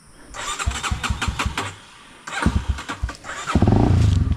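Single-cylinder four-stroke motorcycle engine of a Honda XR250 being started. Two stuttering tries turn it over unevenly, and it catches about three and a half seconds in, running loudly with an even beat.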